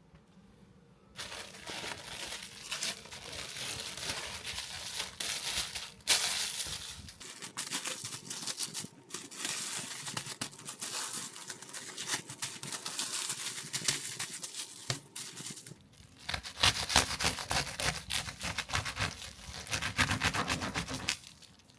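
Crinkling and rustling handling noise, starting about a second in, with a short pause and then quicker, denser scraping strokes near the end.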